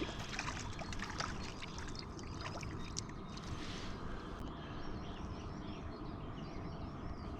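Quiet riverside ambience: a steady low hiss of flowing river water with a few faint clicks, and faint high chirping in the second half.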